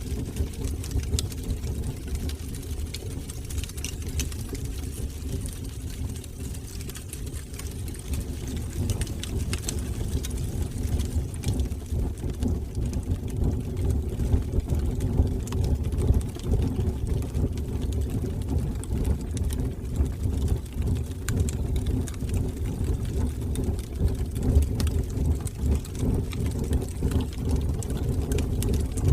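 Fire burning in a fireplace: a steady low rumble of flames with many small scattered crackles and pops.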